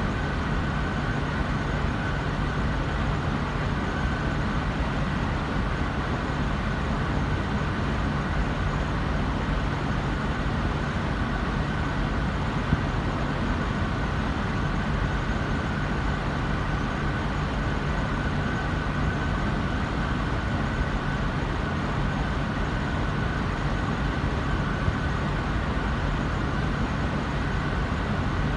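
Payne air handler running steadily on cool mode: an even rush of blower air with a steady low hum and a faint higher tone.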